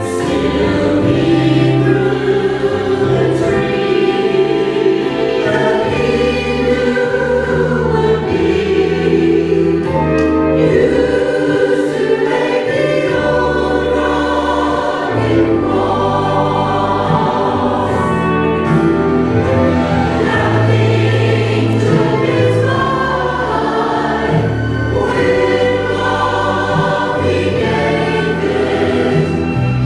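Church adult choir singing an anthem in parts, sustained chords over held low notes.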